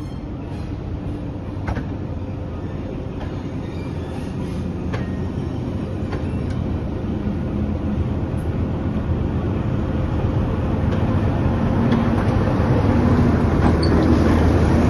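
Class 08 diesel shunter's English Electric six-cylinder engine running with a steady low drone, growing steadily louder as the locomotive approaches, with a few sharp clicks from the wheels and track.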